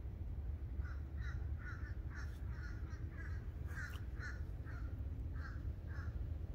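A bird calling in a long series of short calls, about two a second, starting about a second in, over a steady low rumble.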